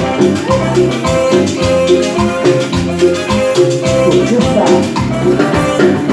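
Live Latin dance band playing an instrumental passage between sung lines: held keyboard or horn tones over percussion keeping a steady beat.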